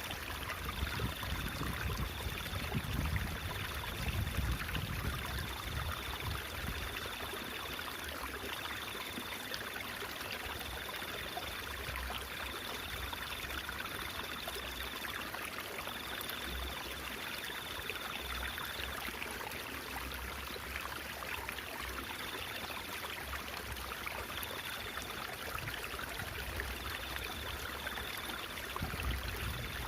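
Stream water babbling steadily, with a faint high tone that comes and goes in short stretches.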